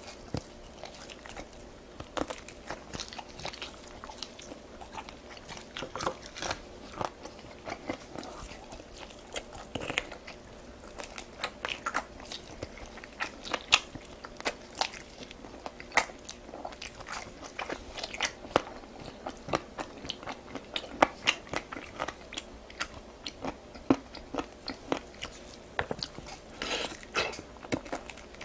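A person chewing and biting food, a steady run of short, sharp clicks several times a second.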